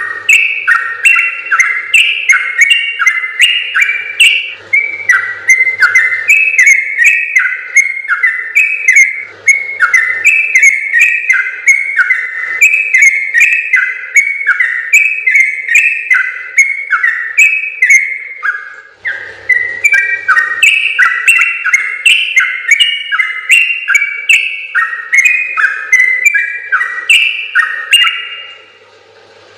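Yellow-vented bulbul (trucukan) singing a long, fast run of bubbly whistled notes, the long 'ropel' song. The song breaks off briefly about two-thirds of the way through, then resumes and stops shortly before the end.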